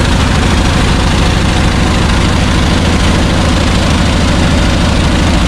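Chevrolet C60 wrecker's engine idling steadily with a low rumble.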